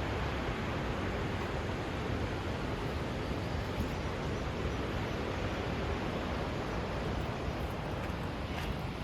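Steady, even rushing noise with no separate events, spread from deep to high pitches.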